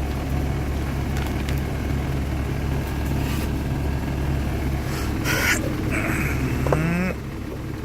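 Truck engine idling with a steady low hum, heard from inside the sleeper cab. A brief rustle comes about five seconds in.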